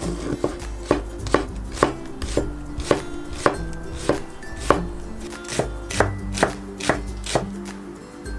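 Kitchen knife chopping food on a cutting board, in even strokes about two a second.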